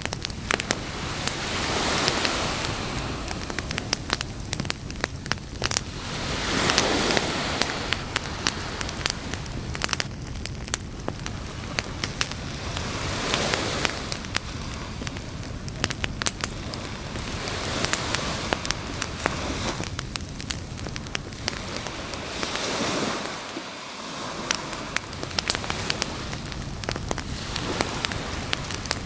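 Campfire crackling with frequent sharp pops and snaps, over the rush of surf that swells and falls back every few seconds as waves break on the beach.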